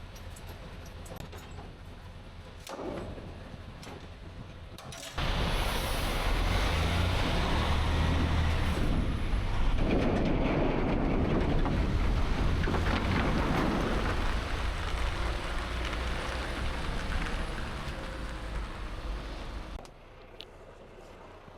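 Semi truck driving on the road, heard from the cab: a steady low engine and road rumble. From about five seconds in, a much louder rush of road and wind noise sets in suddenly and cuts off abruptly near the end.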